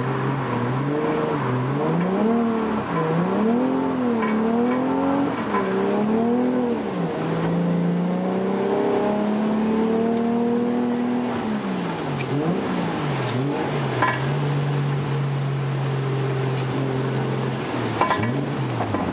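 Toyota JZX100's JZ straight-six engine revving up and dropping back again and again during a drift, twice held steady at high revs for a few seconds, over a steady hiss, with a few sharp clicks in the second half.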